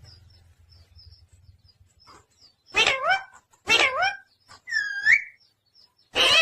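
Pet parrot calling: two short squawks a second apart about three seconds in, then a curling whistle, and another squawk starting near the end.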